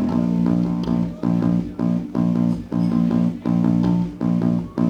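Live band playing a song on guitar and bass, chords struck in a steady rhythm about twice a second, with no singing.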